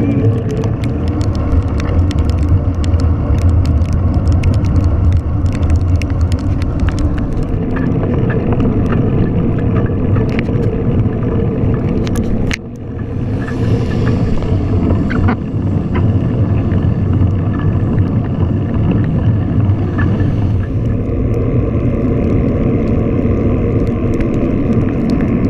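Steady low rumble of wind and road noise from a bicycle ride on wet roads, with many short sharp ticks and rattles, most of them in the first half. The level drops briefly about halfway through.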